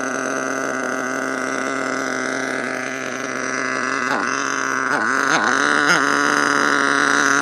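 Small nitro glow engine of an HPI Savage RC truck idling steadily while warming up, its speed dipping briefly and recovering a few times about four to six seconds in.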